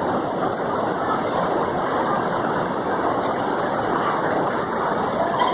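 River water rushing steadily over rocks, a continuous even rushing noise.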